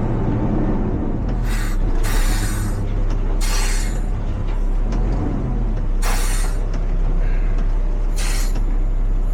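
Front-loader garbage truck's diesel engine running with a steady low drone, broken by five short hissing bursts of about half a second each.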